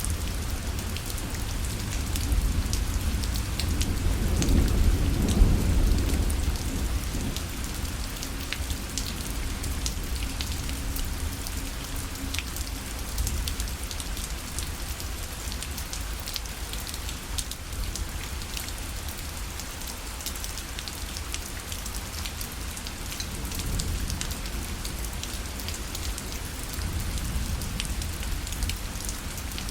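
Rain falling on a parasol: a steady patter with many sharp drop taps on the fabric. Underneath is a low rumble that swells about four to six seconds in.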